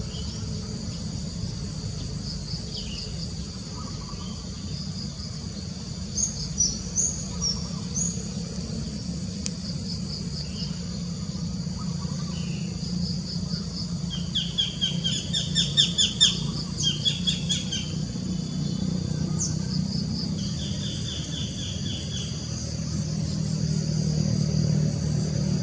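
Wild birds calling and trilling over a steady high buzz of insects, with a few short chirps early on and louder rapid trilling calls in the middle. A low rumble runs underneath and grows louder near the end.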